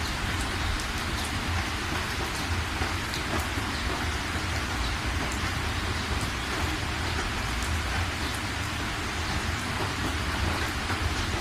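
Steady rain falling, a continuous hiss with many separate drops ticking through it, over a constant low rumble.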